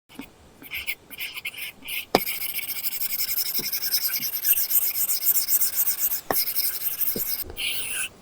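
Apple Pencil tip scratching across a paper-texture screen film on an iPad: a few short strokes, then a sharp tap and about four seconds of quick continuous scratching, as in shading or colouring in. Another tap and a few short strokes follow near the end.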